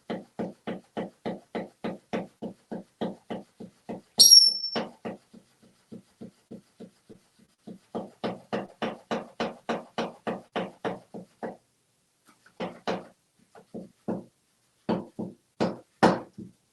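A flopping fish slapping against a hard surface in a steady run of knocks, about four or five a second, that fades, starts again and turns irregular near the end. About four seconds in, a loud high squawk from an African grey parrot cuts across it.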